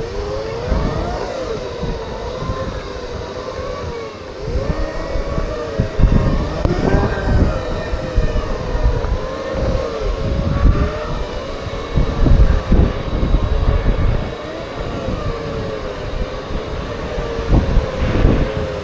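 Segway electric drive motors whining, the pitch sliding up and down as the speed changes, with wind buffeting the microphone.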